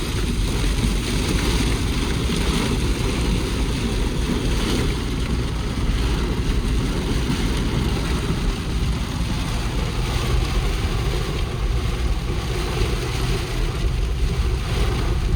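Steady rushing noise with heavy wind rumble on the microphone, from riding a motorcycle through a rainstorm.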